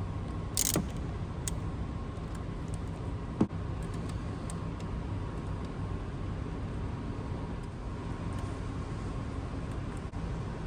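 Two short metal sounds of a wrench working the 10 mm nut on the negative battery terminal clamp: a bright clink just under a second in and a sharp knock about three and a half seconds in, over a steady low hum.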